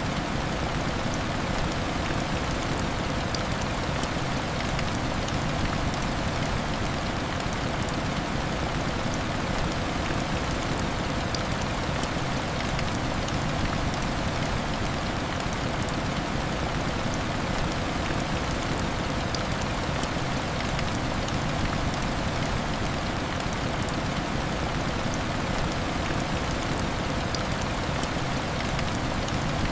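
Steady heavy rain beating on window glass: an even, unbroken hiss with scattered small ticks of individual drops.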